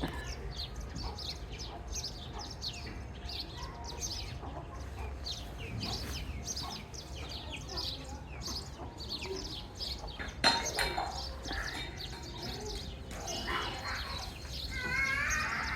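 Chicks peeping: a steady stream of short, high, downward-sliding chirps from several birds. A sharp knock sounds about two-thirds of the way through, and a wavering pitched call comes in near the end.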